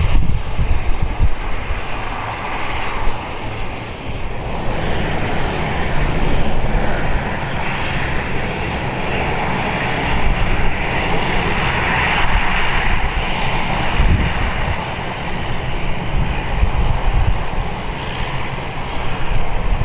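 Boeing 787-9 Dreamliner's GEnx-1B turbofan engines during the landing: a continuous jet noise with a deep rumble underneath, swelling a little after about four seconds.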